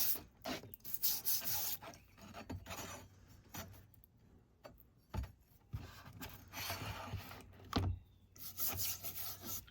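A brush scrubbing loosened forge scale off a vinegar-soaked forged steel blade, in irregular short scratchy strokes with pauses between them, and a couple of light knocks partway through.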